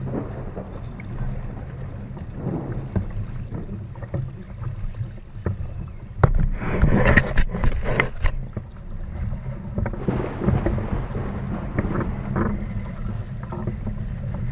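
Wind rumbling on the microphone over water noise from a small boat under way. A louder stretch of splashing and knocking comes about six seconds in, and a smaller one around ten seconds.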